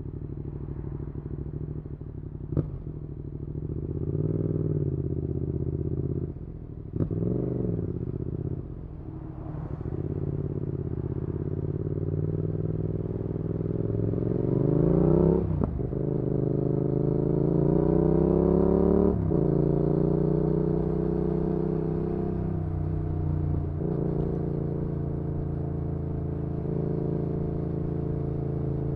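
Yamaha XSR700 parallel-twin engine through an IXRACE MK2 aftermarket exhaust, riding under load: the revs climb and drop abruptly several times as the rider shifts, with a short sharp crack at each drop, then settle to a steady cruise in the last third.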